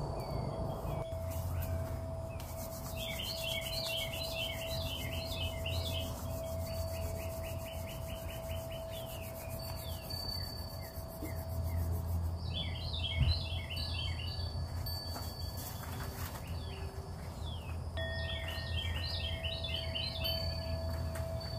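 A songbird singing three bouts of quick repeated chirping notes, over a steady single high tone that drops out in the middle and a low hum.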